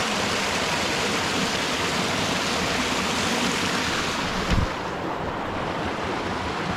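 Steady rush of flowing water, a river or waterfall. About four and a half seconds in there is a short low thump, after which the hiss is softer and duller.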